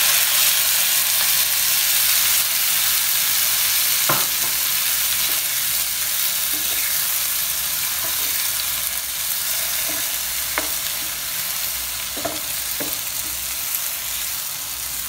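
Freshly added chopped tomatoes sizzling in hot olive oil in a frying pan, stirred with a wooden spatula that knocks lightly against the pan now and then. The sizzle is loudest at first and eases slowly as the tomatoes settle into the oil.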